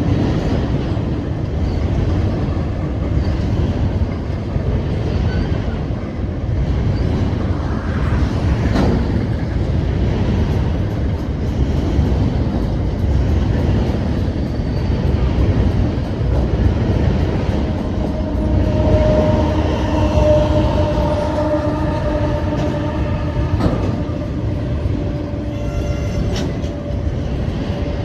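Freight train rolling past, a continuous rumble of wheels on rail. From about two-thirds of the way in, a steady whine of a few pitches joins the rumble.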